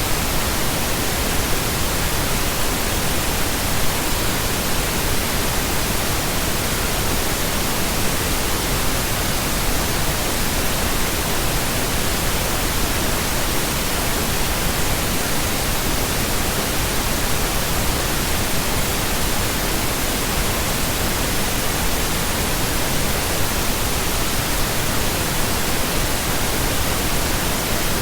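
Steady, continuous pink noise: an even, unchanging hiss.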